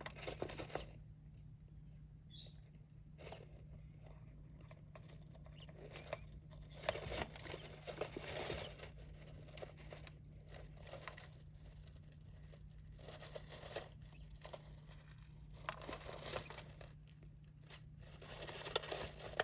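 Faint, irregular rustling and crunching from small pet birds moving and picking about in their cage, over a steady low hum.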